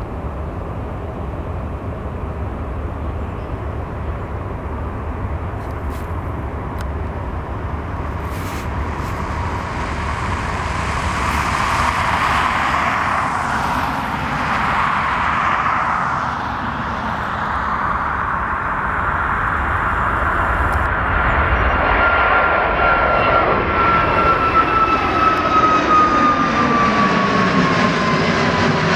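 Jet airliner taking off, a Boeing 737 MAX 8 with CFM LEAP-1B turbofans: engine noise builds steadily, and a high whine comes in about two-thirds of the way through and falls in pitch near the end as the aircraft passes.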